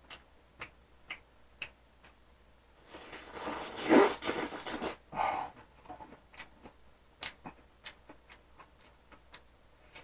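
Close-up eating sounds from stir-fried sausages: scattered small mouth clicks and smacks while chewing, with a louder, noisier stretch of chewing about three to five seconds in.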